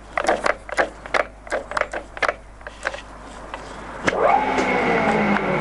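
Stankoimport 16K20 centre lathe: a run of clicks and knocks from the headstock gearing as a speed is changed, then about four seconds in the spindle starts up and the headstock runs with a steady gear whine.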